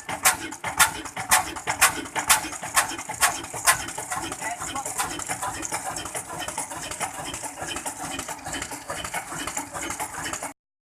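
Desi engine running, with sharp, evenly spaced knocks about twice a second for the first few seconds, then settling into a steadier, denser beat. The sound cuts off abruptly near the end.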